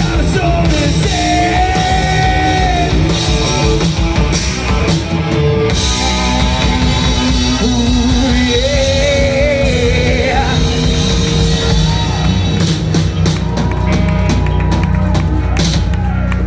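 Live rock band playing loud, with a singer holding long, wavering notes over drums and guitars; the drumming grows busier near the end.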